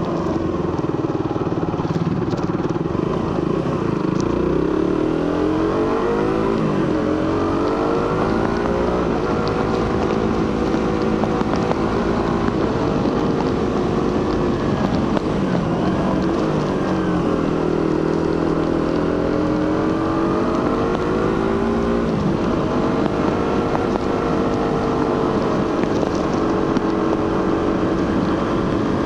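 Suzuki GSX-R150's single-cylinder 150 cc engine through its stock exhaust, heard from the rider's seat on the move. The engine note climbs, drops off sharply and climbs again several times as the bike accelerates, changes gear and eases off.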